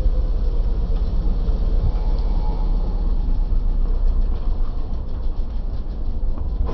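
A passenger train running, with a steady low rumble.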